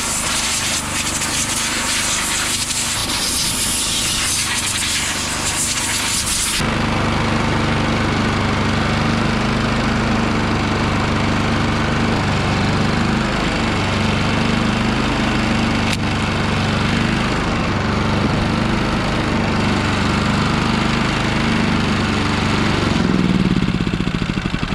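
Westinghouse iGen4500DF inverter generator's single-cylinder gas engine running steadily, now on fresh fuel after stale gas was cleared from the line. A loud hiss covers the first several seconds, then gives way to a steady engine hum whose pitch drops near the end.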